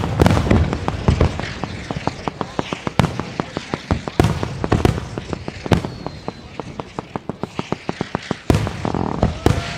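Fireworks display: aerial shells bursting with loud bangs every second or so, and dense rapid crackling in between.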